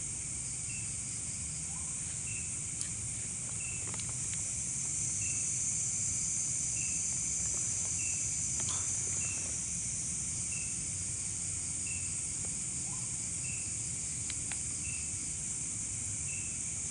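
A steady, high-pitched chorus of night insects, with one short chirp repeating a little less than once a second over it.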